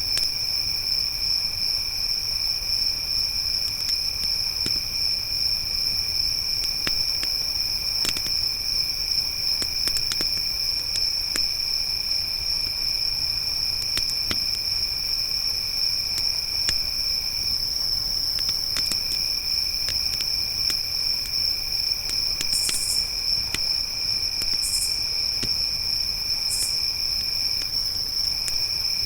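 Crickets chirring in a continuous chorus of steady high-pitched tones, over a wood campfire crackling with scattered sharp pops. Three short, higher buzzes come near the end.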